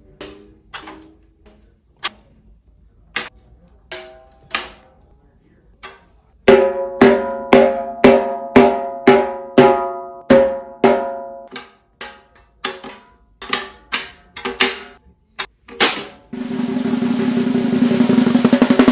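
Snare drum tuned high, with the snare wires engaged: light single taps for the first few seconds, then loud strokes, each ringing with a clear high pitch. About sixteen seconds in it goes into a roll that swells louder to the end.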